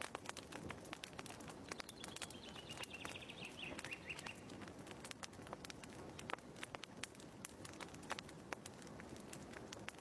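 Wood fire crackling in a fireplace, a steady faint hiss with scattered sharp pops and snaps. About two seconds in, a small bird sings one quick descending trill lasting about two seconds.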